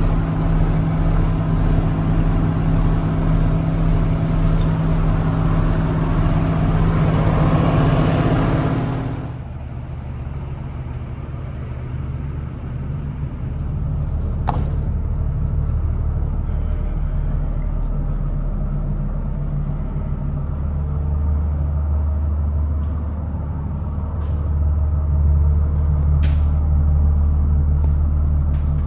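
Diesel engine idling steadily. About nine seconds in, the sound drops suddenly to a lower, quieter running, and a few sharp clicks come later.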